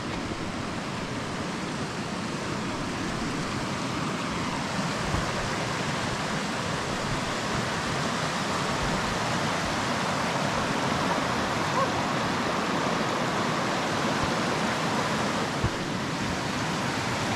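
Rushing stream water, a steady full splashing rush that grows slightly louder through the stretch.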